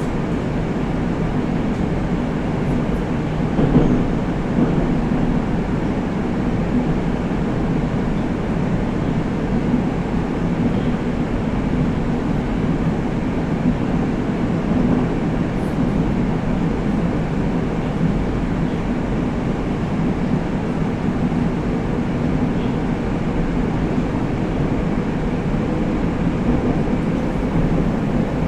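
Steady running noise of a 81-765 «Москва» metro train under way between stations, heard from inside the car: a continuous rumble of wheels on rails and the running gear, holding an even level throughout.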